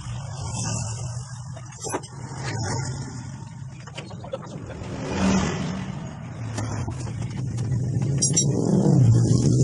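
A motor vehicle engine running, its pitch swelling slightly about five seconds in and growing louder toward the end, with scattered clicks over it.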